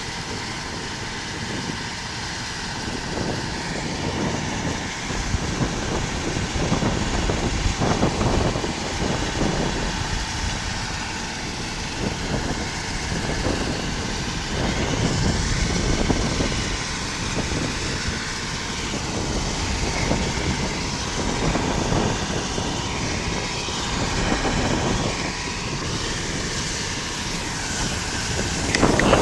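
Loud rushing, rumbling noise that swells and eases every second or two, typical of strong storm wind buffeting the microphone.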